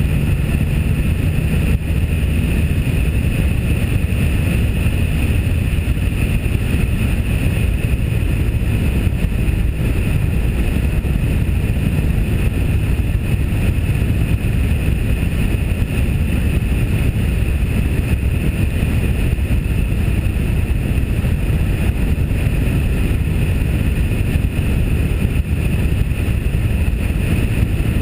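Steady rumble of wind on a GoPro microphone padded with cotton and tape, over the engine and road noise of a 1997 Pontiac Firebird driving at speed. An engine note under the wind drops away about a second in.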